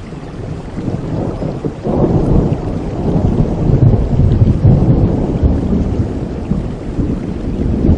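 Thunder rumbling over steady rain: a low roll builds about two seconds in, peaks in the middle and slowly fades.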